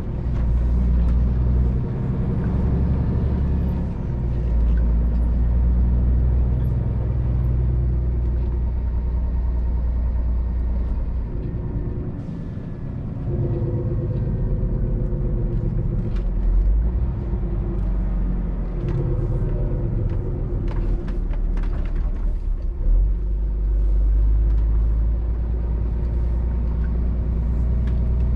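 Scania R500 truck engine running under way, a steady low drone whose pitch and level shift as the truck changes speed, easing off about twelve seconds in and picking up again. A few short clicks sound over it in the second half.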